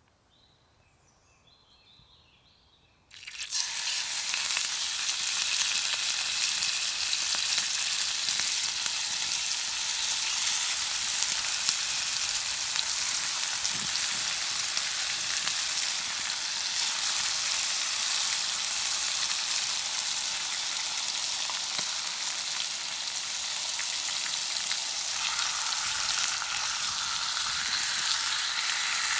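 Sausages and bacon sizzling in a frying pan, a steady dense sizzle that starts suddenly about three seconds in.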